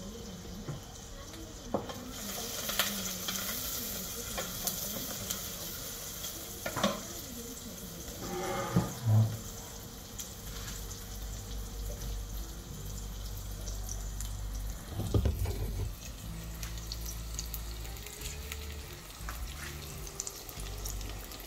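Food frying in oil in a stainless steel pot, a steady sizzle, with a spoon stirring and a few sharp clinks of metal against the pot.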